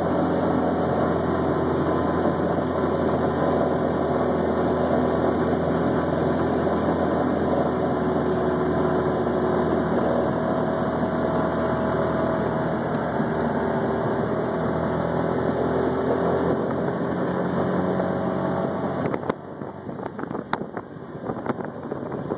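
Small engine of a three-wheeled tour car running steadily at road speed. About nineteen seconds in the engine note drops and gets quieter, with a few clicks.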